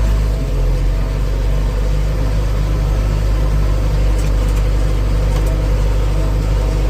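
Heavy diesel engine running steadily with an even, low drone.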